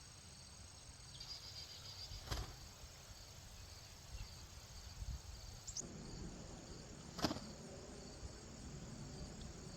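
Two sharp clicks about five seconds apart as spears are thrown from an atlatl, over steady cricket chirring.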